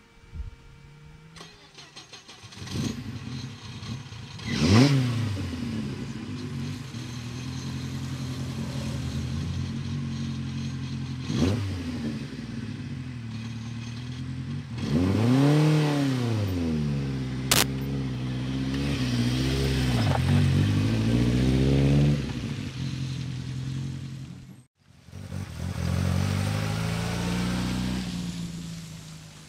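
Opel Kadett C rally car's engine starting, then blipped sharply several times and given one long rev that rises and falls, idling unevenly in between. Near the end the sound cuts off abruptly and another rally car is heard accelerating on a wet road.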